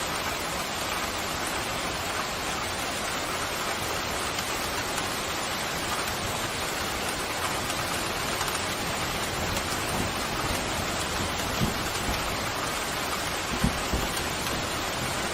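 Steady pouring rain, an even hiss with no letup. A few short low thumps come near the end.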